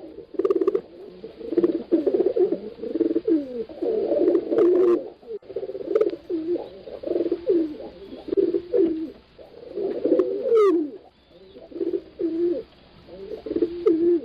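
Several pigeons cooing, their low calls overlapping in a steady run of rising and falling phrases, with a few short higher chirps among them.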